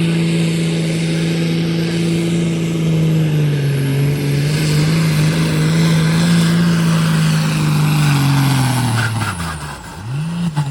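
Pulling tractor's engine held at high, steady revs under load, then the revs falling away sharply near the end as it comes off the throttle, with a brief blip back up just before the end.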